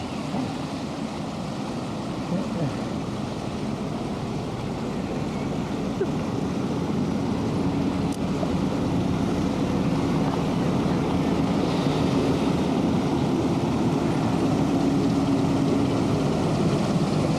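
A steady engine hum with a constant low pitch over a noisy background, growing louder from about six seconds in.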